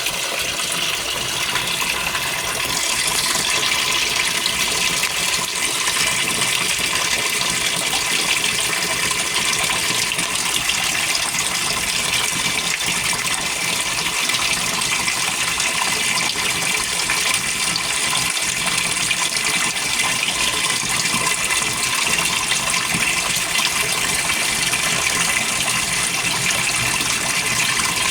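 Cold water rushing into the tub of a GE Spacemaker GUD24ESSM1WW laundry center's top-load washer, filling for the wash. It is a steady hiss that grows slightly louder about three seconds in.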